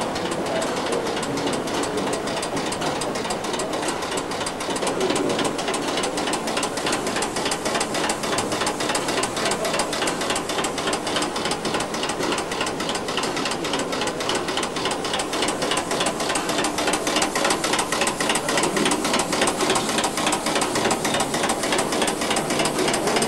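A small machine running steadily with a fast, even clatter, growing a little louder about two-thirds of the way in.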